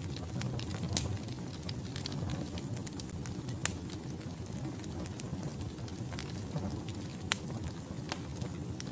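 Wood fire burning in a fireplace: a steady low rumble of flames with constant crackling and a few sharp, louder pops of burning logs, about 1 second, 3.7 seconds and 7.3 seconds in.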